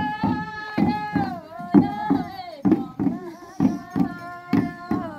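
Thami shamans' ritual chant, sung in long held notes that glide down at the end of each phrase, over a steady beat of about two strokes a second.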